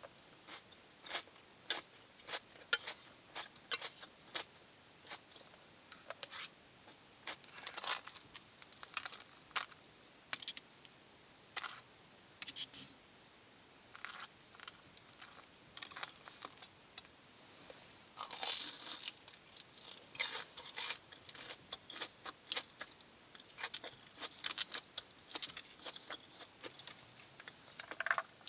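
A person chewing crunchy food close to the microphone: irregular crunches and small snaps, a few every second.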